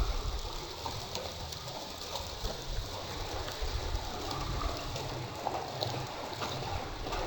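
Light rain outdoors, with water trickling and dripping as scattered small ticks, over an uneven low rumble.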